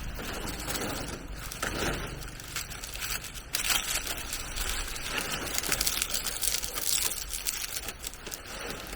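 Rustling and crackling handling noise with many scattered clicks and scrapes.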